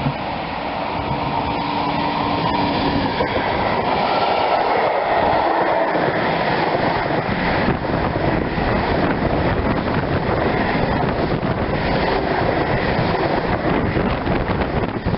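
A train passing close by on the track, the noise of wheels on rails building over the first few seconds and then holding loud and steady, with rapid clicking through it.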